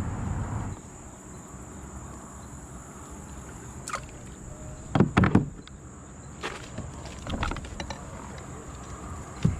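Insects buzzing in a steady high tone, broken by a scatter of knocks and clunks, the loudest a quick cluster of three about five seconds in. A low rumble during the first second cuts off suddenly.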